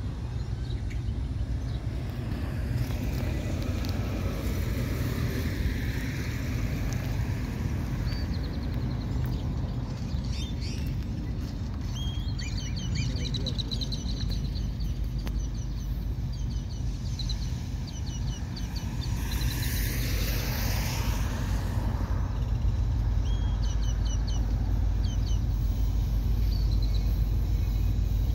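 Steady low rumble of a distant diesel freight train approaching, growing a little louder near the end, with birds chirping now and then. A brief rushing noise passes about twenty seconds in.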